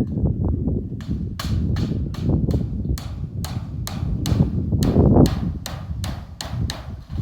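Steady hammering, about three sharp blows a second starting about a second in, over a constant low rumble.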